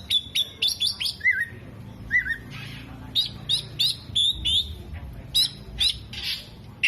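Oriental magpie-robin (kacer) singing: quick runs of short, sharp high chirps, broken about a second in by two lower warbled whistles, then another fast run of chirps.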